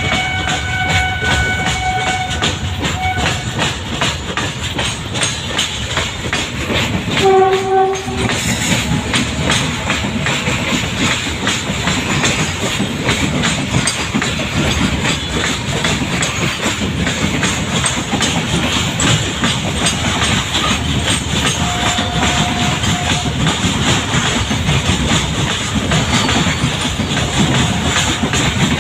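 Goods train rolling past, its wagon wheels clicking steadily over the rail joints. Short horn tones sound near the start and again, briefly and louder, about seven and a half seconds in.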